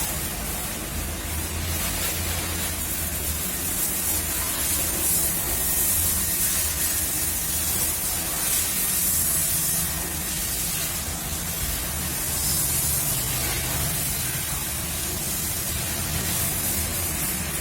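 High-pressure washer spraying water at a car wash: a steady hiss that swells and eases as the jet moves, over the low hum of the pump motor.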